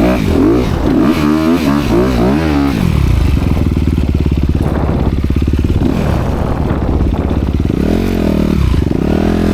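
Honda CRF250R dirt bike's single-cylinder four-stroke engine with its dual exhaust, blipped up and down in quick revs in the first few seconds, then running at a steadier pace before rising and falling again near the end.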